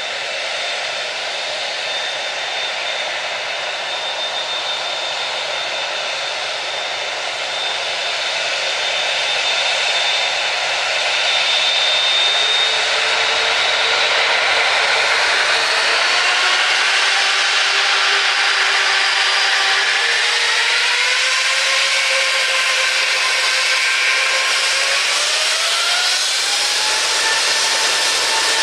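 Four-engine wide-body jet airliner's engines running on the runway, a steady roar with whining tones that rise in steps about halfway through as the engines spool up toward takeoff thrust.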